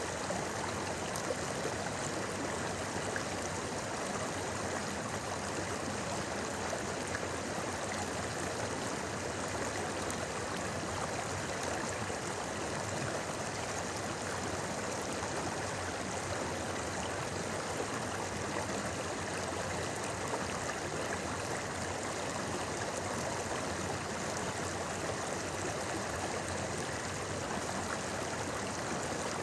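A clear mountain river flowing and babbling over rocks, a steady rushing murmur of water.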